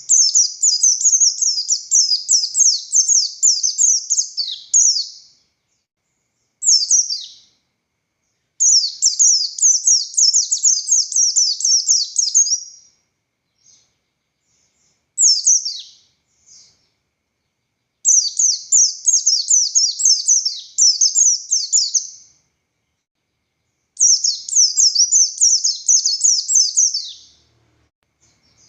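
Buxtoni white-eye (pleci) singing its long, vigorous song: four phrases of rapid, high-pitched warbling lasting a few seconds each, with short single call notes in the pauses between them.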